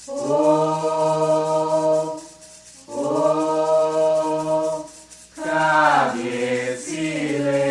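Voices chanting a capella a salutation to the orixá Xangô, in three long sung phrases with short breaks between them; the last phrase slides down in pitch near the end.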